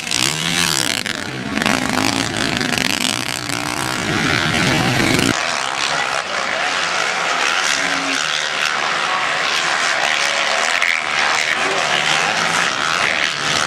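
Motocross bikes' engines revving and buzzing as they race on the track. Their pitch rises and falls, and the deep part of the sound drops away suddenly about five seconds in.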